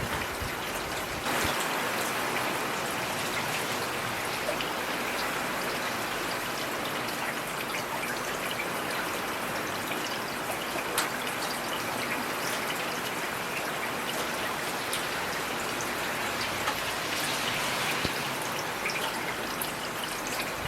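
Heavy rain falling steadily, with individual drops ticking sharply through the dense patter; the rain grows slightly louder about a second in.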